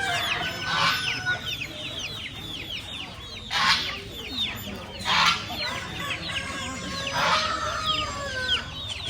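Caged poultry calling: a steady chorus of short, high, falling peeps from many chicks, broken by four loud, harsh calls from adult chickens, about a second in, twice near the middle, and once more later.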